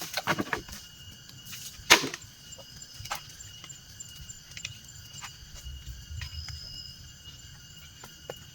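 Wooden knocks and clattering while building with timber, with one sharp hard strike about two seconds in and then a few light taps, over a steady high insect drone from the forest.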